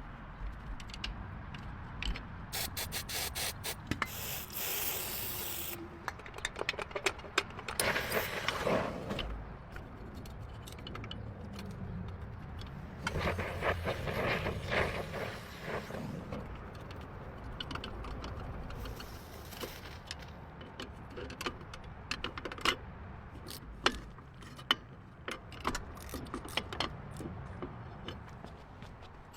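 Hand-tool work on metal: a run of irregular clicks and clanks, with several bursts of scraping noise lasting a second or two each.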